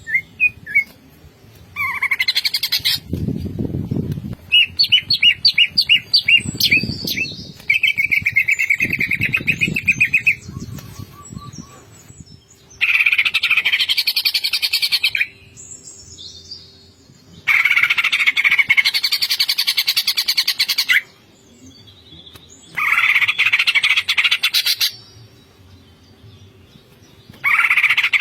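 Greater green leafbird (cucak ijo) singing in repeated bursts of fast, rattling trilled song, each phrase lasting two to three seconds with short pauses between. A low rumble sounds under the first few phrases.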